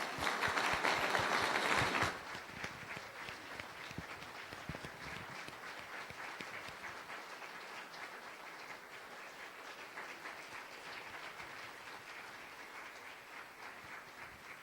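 Congregation applauding after a song: a loud burst of clapping for about two seconds, then lighter clapping that carries on steadily.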